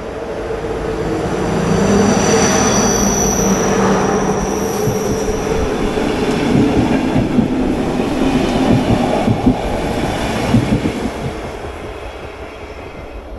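Another train passing close by on the next track: a loud rumble that builds over a couple of seconds, with high wheel squeal in its first few seconds and uneven wheel knocks in the middle, then fades away.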